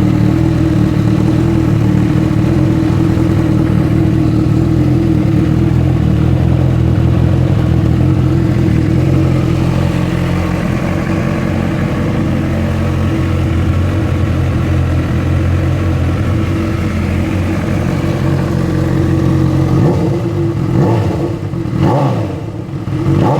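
Honda CB1000R inline-four engine idling steadily through an aftermarket Laser exhaust, then blipped a few times with short throttle revs near the end.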